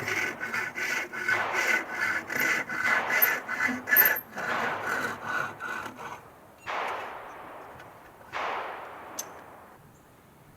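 Hand saw cutting wood in quick regular strokes, about two or three a second, with a faint ringing of the blade. The sawing stops about six seconds in, and two slower, longer strokes follow.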